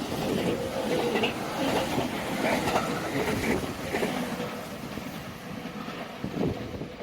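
Train passing through a station, its wheels clattering over the rail joints, the sound dying away over the last few seconds.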